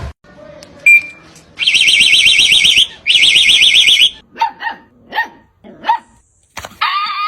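A warbling electronic alarm sounds twice, about a second each, then a dog barks three times and gives a longer bark or yelp near the end.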